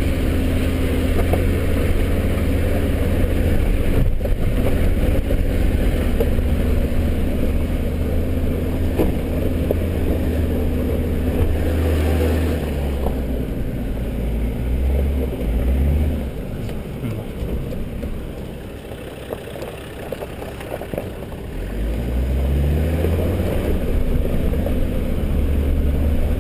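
Land Rover's engine pulling steadily at low speed over a rough dirt track, heard from inside the cabin, with occasional knocks from the rocky ground. Past the middle the engine eases off for a few seconds, then revs up again with a rising note.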